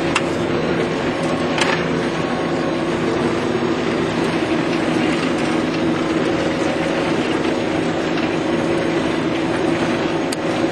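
Claas 900 forage harvester running steadily while chopping silage, a constant mechanical noise with several steady tones held throughout.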